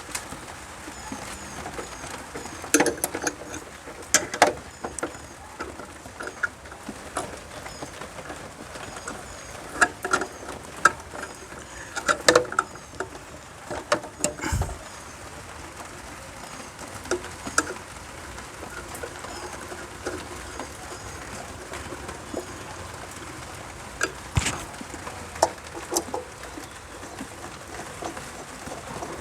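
Intermittent clicks, taps and knocks of hand work on electrical wiring and a switch, with a heavier thump about 14 seconds in. Small birds chirp faintly throughout.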